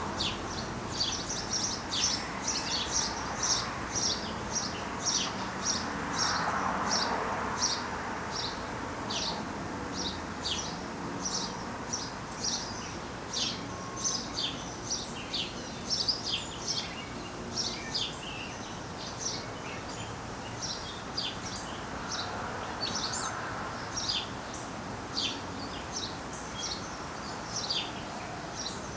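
Small birds chirping: a continuous run of short, high, down-slurred chirps, about two or three a second.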